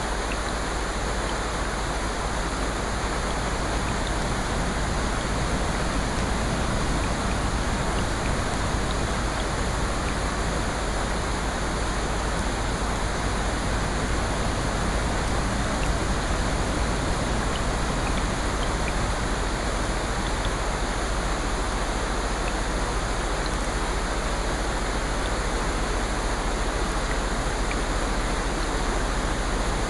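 Steady, even rushing of water, with no rise and fall of breaking waves, flecked with faint tiny ticks.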